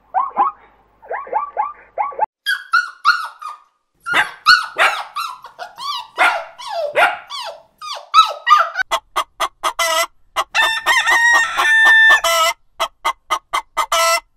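A run of animal calls: short repeated barking yelps at the start, whining and yelping calls in the middle like a puppy's, then a chicken clucking in a quick, even series through the last few seconds.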